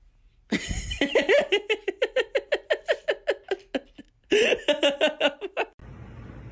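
A person laughing hard in a fast run of pitched "ha-ha" pulses for about three seconds, then a second, shorter burst of laughter.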